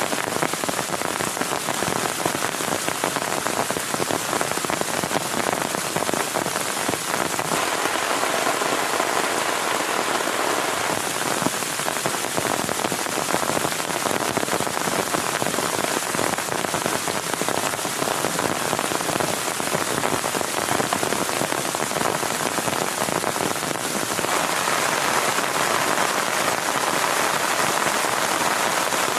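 Heavy rain falling steadily, a dense patter of drops that grows a little heavier about eight seconds in and again near the end.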